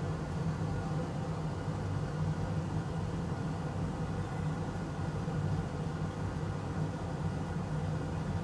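Steady low hum with a hiss over it, the even sound of a running fan or similar machine, with no distinct clicks or knocks.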